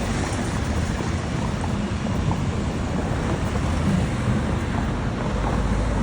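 Lisbon tram running on its rails, a steady rumble with a low, noisy roar.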